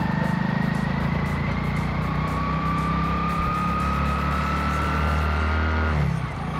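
Hero Splendor XTEC's single-cylinder four-stroke engine running under throttle on the move, with a whine that slowly rises in pitch as the bike gathers speed. About six seconds in the engine note drops as the throttle is eased off.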